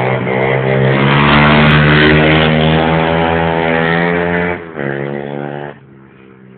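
125cc pit bike's single-cylinder four-stroke engine held at high revs with a fairly steady pitch. About four and a half seconds in the revs drop sharply, pick up briefly, then fall away to a much quieter level near the end as the throttle closes.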